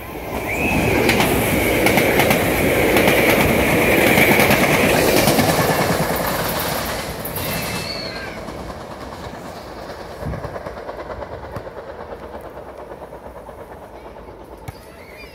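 SEPTA Regional Rail electric train passing close by at speed: wheels rumbling and clicking over the rail joints, with a high steady squeal. It is loudest over the first several seconds, then fades away as the train recedes.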